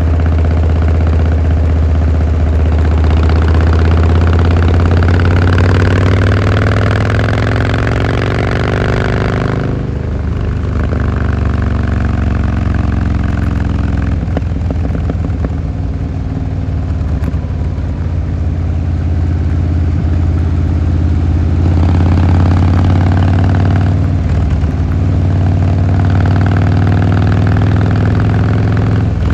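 Harley-Davidson Fat Boy Lo's air-cooled V-twin engine and exhaust under way. It pulls up through the revs for several seconds, the pitch rising steadily, then drops off abruptly about ten seconds in, as at a gear change or when the throttle is rolled off. After that it runs at a steadier pace, with smaller changes in the engine note later on.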